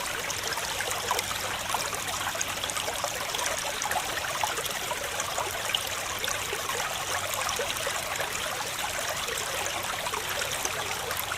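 Waterfall: a steady rush of falling water, full of small splashes and spatters, with no lull or change.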